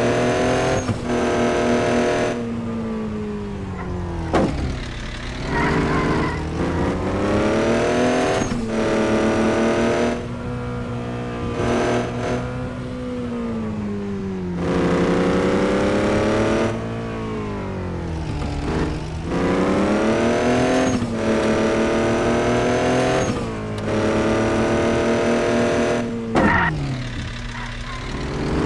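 A vehicle's engine pulling hard up through the gears, its pitch climbing and then dropping at each shift, over and over.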